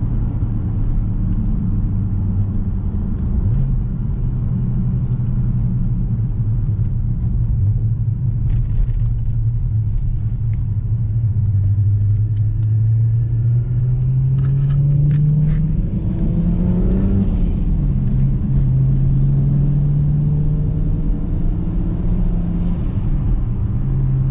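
Single-turbo BMW 335i's straight-six engine droning steadily over road rumble while cruising. Its pitch climbs slowly past the middle and drops back about 17 seconds in, then holds steady again.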